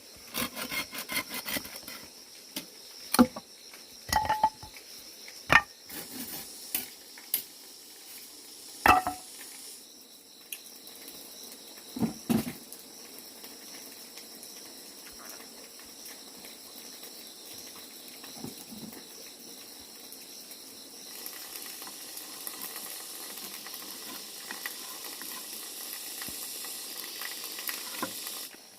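Scattered knocks and clatter of objects being handled, loudest about 3, 4, 5.5, 9 and 12 seconds in, over a steady high insect chirring. A steady hiss rises about 21 seconds in.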